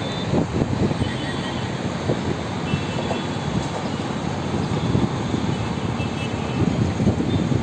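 Steady rumbling vehicle running noise, with wind buffeting the microphone.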